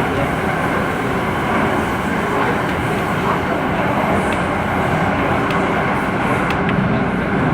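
MTR A-Train car running at speed, heard from inside the car: a steady rumble of wheels on rails and running gear.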